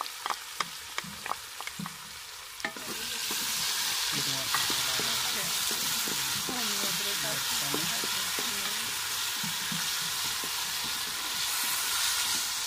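Onions, ginger, green chillies and tomato frying in hot oil in a large aluminium pot. Scattered crackles and pops at first; about three seconds in, a steady loud sizzle takes over as a wooden spatula stirs and scrapes the mixture around the pot.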